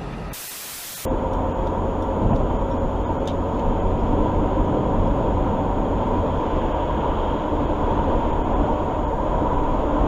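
Steady road and engine rumble of a moving vehicle, after a short burst of hiss about half a second in.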